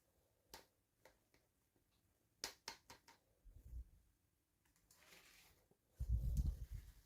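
Hands handling small plastic toy packaging: a few sharp clicks, a soft rustle, then a run of dull low thumps near the end, the loudest part.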